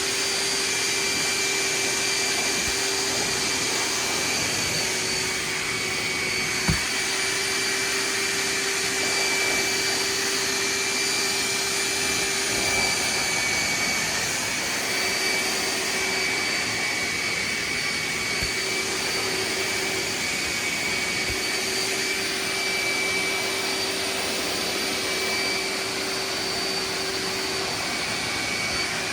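Hoover wet/dry vac running steadily on wet pickup, sucking water out of a saturated rug: an even rushing motor noise with a constant whine. One brief knock about seven seconds in.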